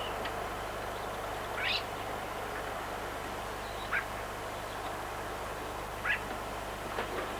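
Short bird calls, three of them about two seconds apart, over a steady background hiss.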